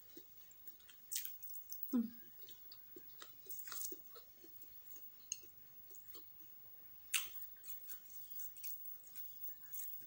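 Close-miked chewing of a spicy meatball: soft wet mouth clicks and smacks, with a few sharper clicks standing out, the loudest about two seconds in and about seven seconds in.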